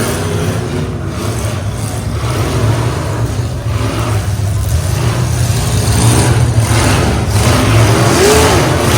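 Demolition derby trucks' engines running and revving, getting louder about six seconds in.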